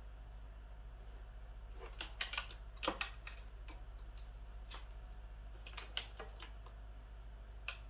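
Scattered small clicks and light plastic rattling of wiring-harness connectors being handled and plugged together, in clusters about two and six seconds in, over a steady low hum.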